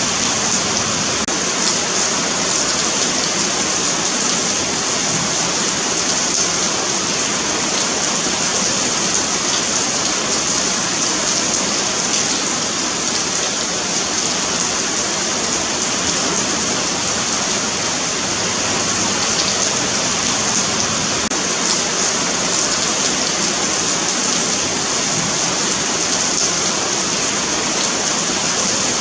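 Steady rain falling on a pavement, a continuous hiss of drops with fine patter throughout.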